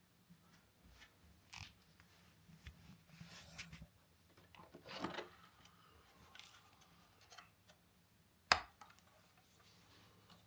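Faint scattered rustling and light clicks, with a brief swish about five seconds in and one sharp click a little past eight seconds in.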